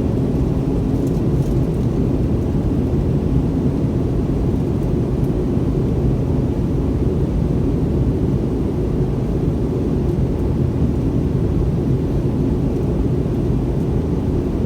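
Steady low roar of an MD-90-30's two rear-mounted IAE V2500 turbofan engines, heard inside the passenger cabin while the airliner climbs after takeoff.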